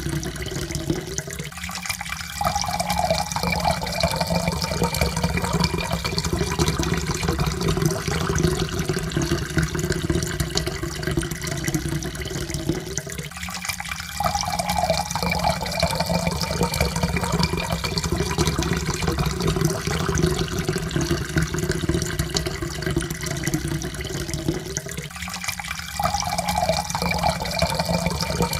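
Water pouring steadily into a cup. The pour repeats about every twelve seconds: a brief break, then a faint tone that rises slowly as the cup fills.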